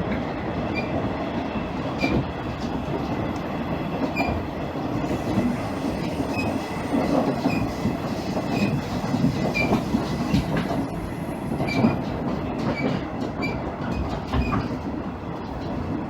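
Interior running sound of a KiHa 110 series diesel railcar: the diesel engine and the wheels on the rails make a steady rumble, with short clicks recurring throughout from the wheels passing over rail joints.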